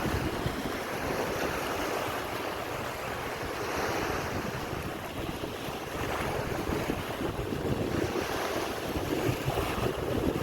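Sea waves washing onto a beach, rising and falling in slow swells, with wind buffeting the microphone.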